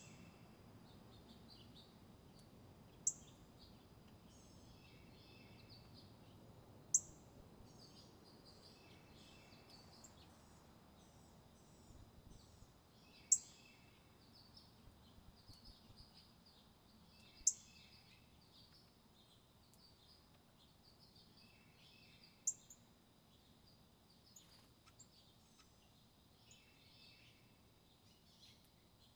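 Small wild birds calling: a sharp, very high chirp every few seconds, six in all, over a scatter of fainter short chirps and twitters. A steady thin high tone runs faintly underneath.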